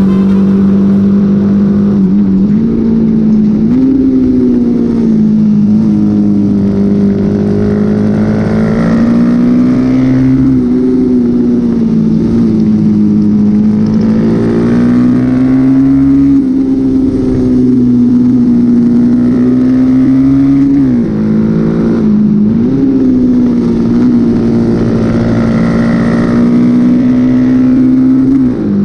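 Honda XL motorcycle engine running hard under load. Its pitch holds high for long stretches and dips briefly a few times before climbing again.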